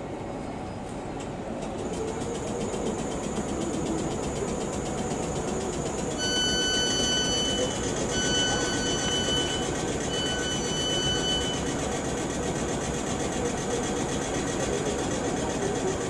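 Electric multiple unit standing at a platform with a steady running noise, and three long electronic beeps in a row starting about six seconds in, the warning tone of the train's doors about to close.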